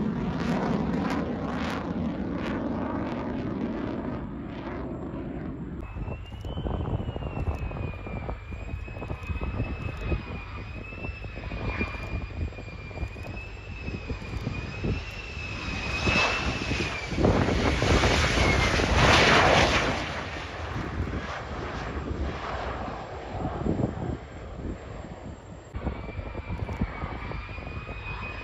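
Lockheed Martin F-35's single Pratt & Whitney F135 jet engine in flight: a deep rumble fading over the first few seconds, then a high wavering whine over a rushing noise that swells to its loudest about two-thirds of the way through, with the whine returning near the end.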